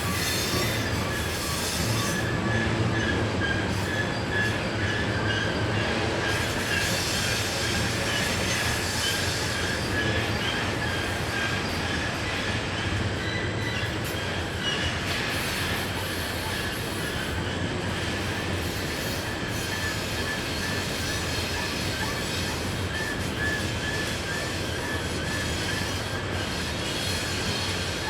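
Loaded coal hopper cars of a long freight train rolling steadily through a tight curve, their wheel flanges squealing against the rail in a high, sustained squeal over a continuous rumble and clatter of wheels.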